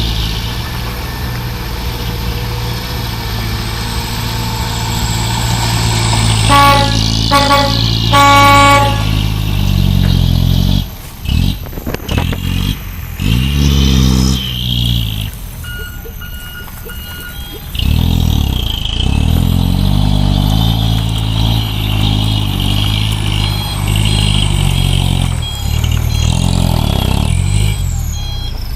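Truck engine labouring in mud, its revs rising and falling. About seven seconds in, a vehicle horn honks three times, the last honk the longest.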